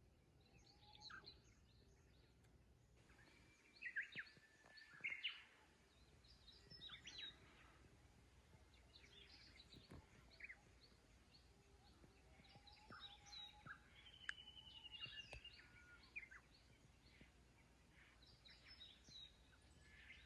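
Faint wild birdsong: scattered short chirps and calls from several birds, with a brief rapid trill about two-thirds of the way through.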